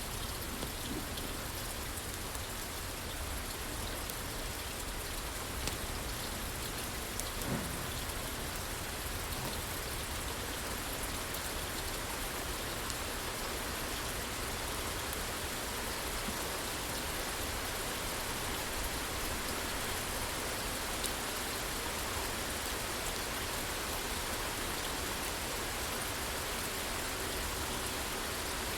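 Steady rain falling on a roof, with a couple of brief pops about six and seven and a half seconds in.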